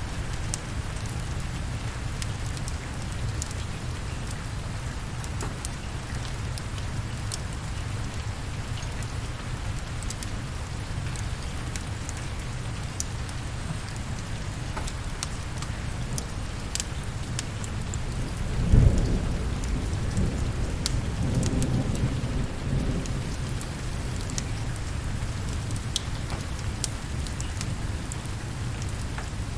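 Steady rain with a low background rumble and scattered sharp ticks. About two-thirds of the way through, a thunderclap breaks in and rumbles for a few seconds before fading back into the rain.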